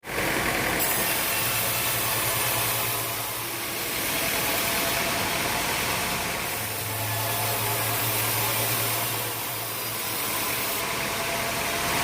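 Sawmill machinery running steadily: a motor hum under a constant hiss, the hum coming in stronger for a few seconds at a time.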